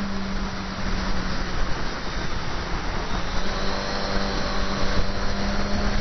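Motorcycle engine running at steady cruising revs, with heavy wind rush over the microphone.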